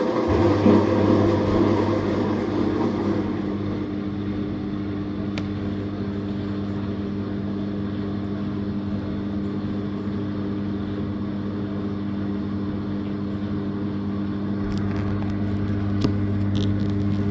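Living & Co 5.5 kg top-load washing machine running: a steady electrical hum switches on just after the start, over a wash of noise that fades in the first few seconds. A few light clicks come near the end.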